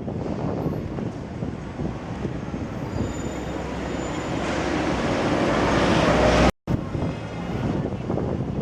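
Hong Kong double-decker electric tram running on street track, with a steady rumble and rattle. The noise swells louder for a couple of seconds, then the sound cuts out abruptly for a split second about two thirds of the way in before the running resumes.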